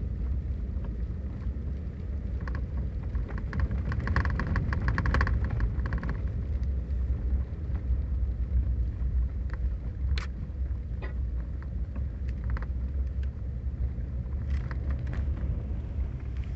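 Winter storm: a steady low rumble of wind on the microphone, with scattered ticks of rain and ice pellets striking, thickest about four to six seconds in.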